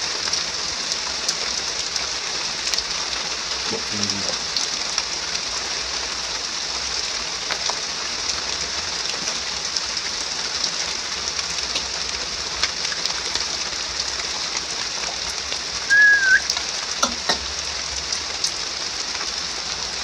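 Heavy rain falling steadily, an even hiss with scattered drop ticks. About three-quarters of the way through, a single short high call that rises at its end stands out above the rain.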